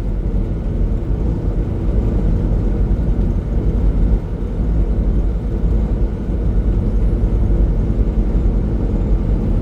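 Semi-truck engine and tyres running steadily at highway speed, a constant low drone heard from inside the cab.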